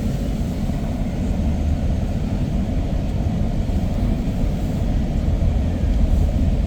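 Car driving: a steady low road and engine rumble.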